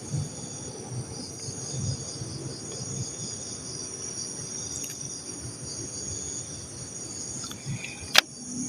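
Night insects, crickets, chirring steadily in a continuous high-pitched chorus, with faint low shuffling underneath and a sharp click near the end.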